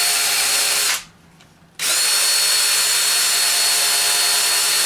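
Power drill running steadily, boring a shallow pilot hole into a plastic face piece for a screw. It stops about a second in, then starts again under a second later, its whine rising back up to speed.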